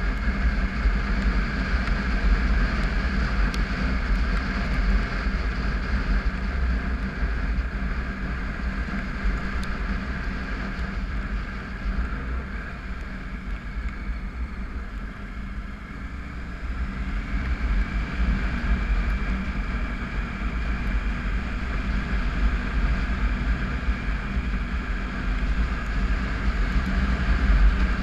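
Triumph Tiger 955i's inline three-cylinder engine running while the motorcycle rides along, with low wind noise on the microphone. Just past the middle the engine eases off, then picks up again a couple of seconds later.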